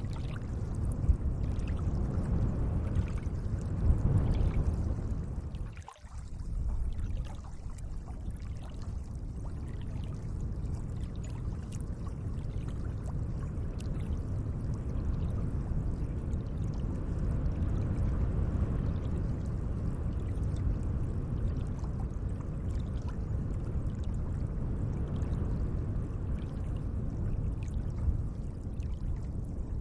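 Gentle running water, a steady wash with fine trickling detail, dipping out briefly about six seconds in.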